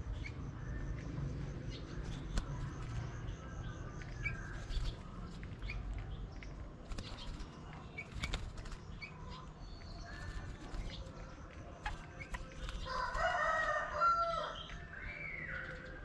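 Small songbirds fluttering their wings as they land on and leave a fruit feeder, with short chirps and small clicks. A louder bird call sounds briefly about 13 seconds in.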